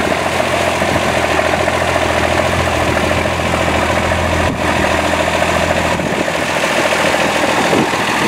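The M35A2 deuce-and-a-half's multifuel six-cylinder turbodiesel running steadily with a dense, fast diesel clatter.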